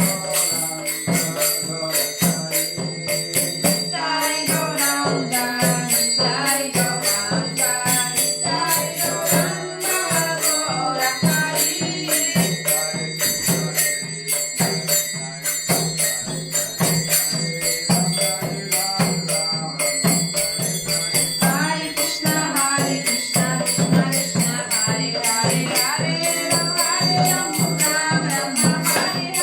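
Devotional kirtan music: singing over a sustained drone, with small hand cymbals ringing a steady beat throughout.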